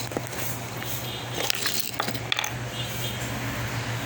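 A few light clicks and clinks of objects being handled, over a steady low hum.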